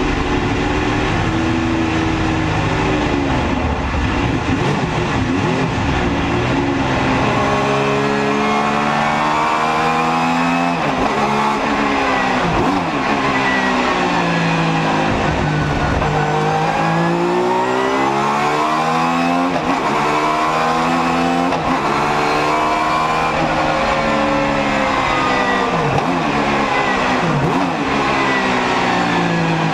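Alfa Romeo 155 V6 Ti DTM race car's V6 engine running hard at high revs, its pitch climbing and dropping again and again as it accelerates and slows.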